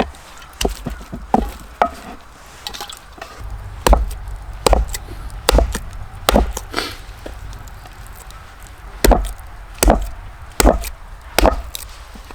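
Chopping blows on wood, struck in two runs of four evenly spaced heavy strikes with a few lighter taps before them.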